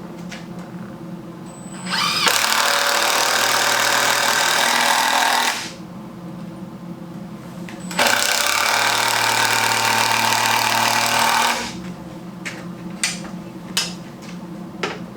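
A handheld power tool working wood, run twice for about three and a half seconds each with a pause between, followed by a few light knocks.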